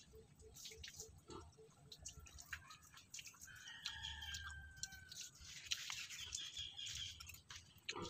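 Soft, close chewing of boiled saba banana: quiet, wet mouth clicks. A bird calls in the background, once near the middle and again shortly after.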